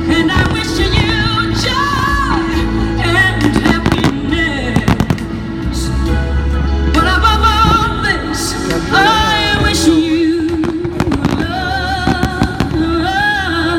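Fireworks going off in scattered bangs while a song with a sung melody plays along with the show.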